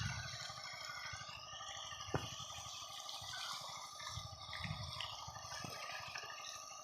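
Water running and splashing steadily, with one sharp knock about two seconds in.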